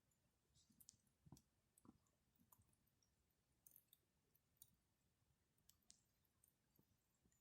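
Wood campfire crackling faintly: scattered, irregular small pops and snaps.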